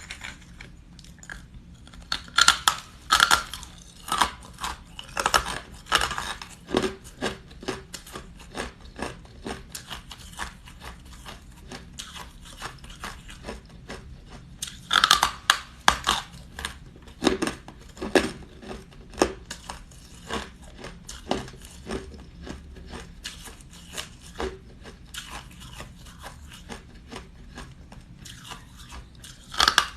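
Ice being bitten and chewed close to the microphone: a run of sharp, irregular crunches, with louder clusters of bites a few seconds in and again about halfway.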